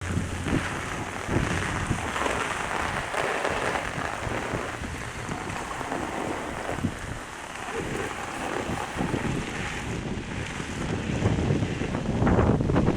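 Steady rain with wind buffeting the microphone, and irregular low thumps throughout that grow busier and louder near the end.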